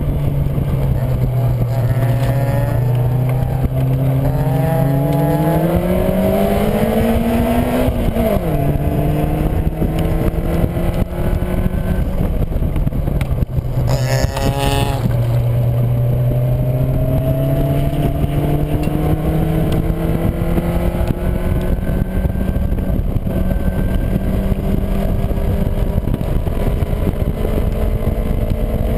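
Caterham Seven's 1.6-litre four-cylinder engine heard from the open cockpit, climbing in revs and then dropping sharply about eight seconds in, as at a gear change; the revs fall again around halfway, then climb slowly. Heavy wind noise runs underneath.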